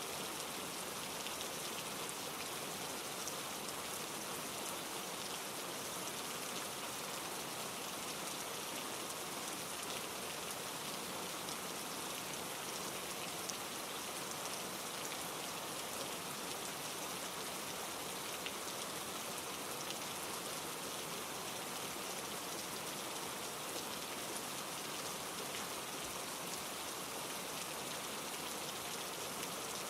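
Steady rain falling on leaves and rocks, with fine drop ticks, blended with the rush of a mountain stream tumbling over granite rocks. The level holds even throughout.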